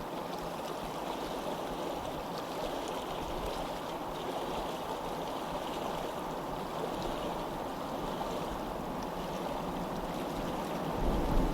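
Stream water flowing and babbling steadily, with small light splashes over the rush. About a second before the end a low rumble comes in and the sound grows louder.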